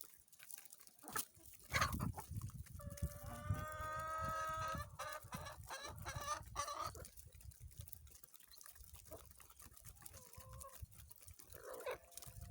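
Chickens clucking, with a rooster crowing once, one long call starting about three seconds in.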